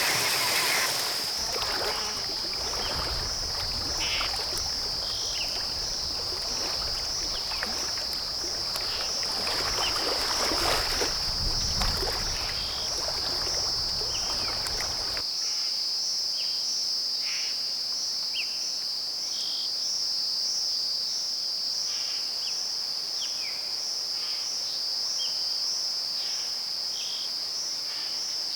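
Rainforest insect chorus: a steady, high-pitched, rapidly pulsing trill of crickets or katydids, with scattered short chirps of frogs or birds over it. A low rumble underlies the first half and cuts off suddenly about halfway through.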